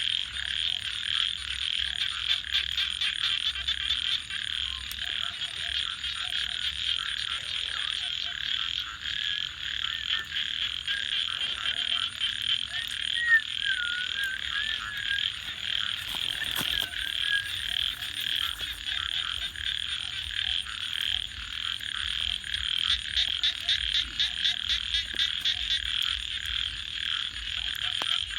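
A dense chorus of frogs calling steadily, with a rapid pulsing trill between about 23 and 27 seconds. Faint clicks of a crackling wood fire are scattered through it, and a thin high steady tone drops out briefly about eight seconds in.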